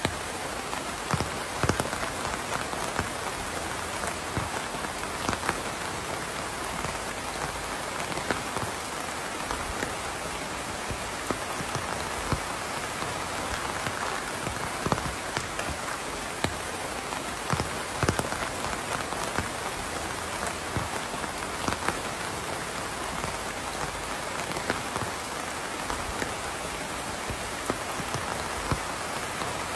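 Steady rain falling, a dense hiss of rain with many separate drops pattering irregularly on a surface close by.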